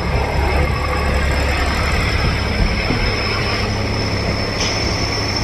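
Maurya Express passenger train running, heard from inside a coach: a steady low rumble of wheels on the track, with a thin steady high whine above it.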